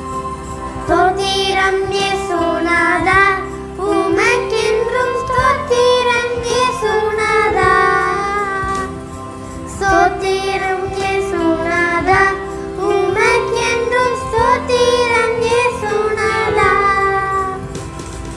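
A song: a child's voice singing a melody in phrases of a few seconds, over steady held instrumental backing.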